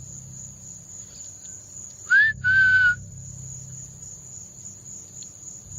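A person whistling two notes about two seconds in: a short rising note, then a held level note. Crickets chirr steadily underneath.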